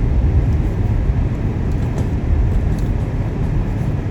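Steady low rumble of tyres and engine heard inside the cabin of a 2018 Jeep Grand Cherokee driving slowly down a snow-covered road.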